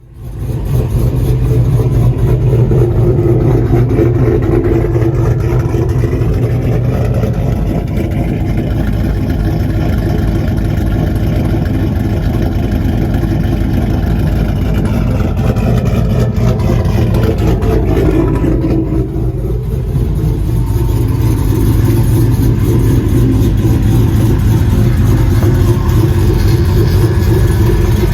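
Vehicle engine running through a loud aftermarket muffler: a steady, deep exhaust drone that comes up in the first second and eases briefly about two-thirds of the way through.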